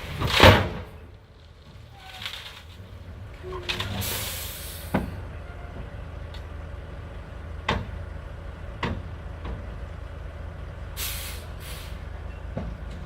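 Dump truck engine running steadily with a low hum. A loud, sharp burst of hiss comes about half a second in, shorter hisses follow later, and there are a few separate knocks.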